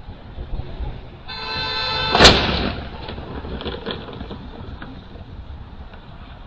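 A car horn sounds for about a second and is cut off by one loud crash of a vehicle collision. A few smaller clatters follow, over steady road noise.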